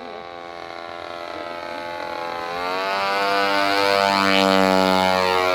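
52cc two-stroke brush-cutter engine powering a foam model airplane in flight, droning steadily. It grows louder as the plane comes in, and its pitch drops about halfway through as it passes by.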